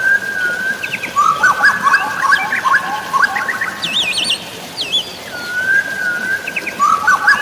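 Songbirds singing. A drawn-out whistled note leads into a quick run of chirps, and the phrase comes again about six seconds in, with higher trills in between. Under the birdsong runs a steady hiss of rain and flowing water.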